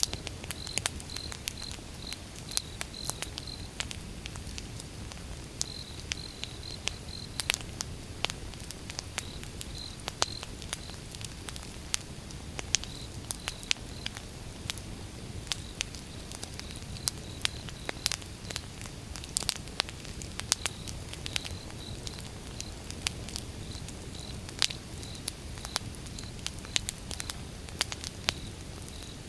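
Firewood burning in a fireplace: irregular sharp crackles and pops, some much louder than others, over a steady low rumble of the fire.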